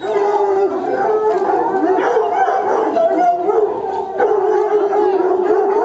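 A group of dogs or wolves howling together in chorus, many overlapping wavering howls at different pitches.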